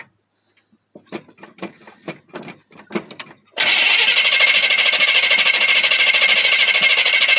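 A few irregular knocks, then about three and a half seconds in the starter motor of a hard-starting Chevy 400 small-block V8 begins cranking the engine with a loud, steady, high whir.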